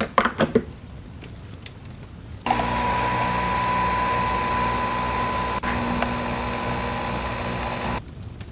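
A few handling knocks, then an electric motor appliance runs steadily with a high, even whine for about five and a half seconds and cuts off abruptly.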